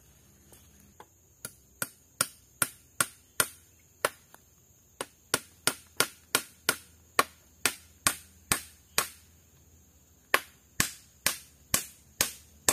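Repeated sharp blows of a hand tool, about two to three a second, in three runs broken by short pauses.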